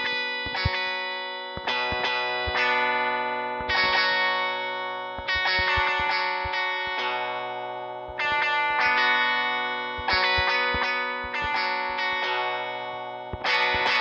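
Guitar, likely electric with effects, playing ringing chords about once a second, each chord sounding and then fading.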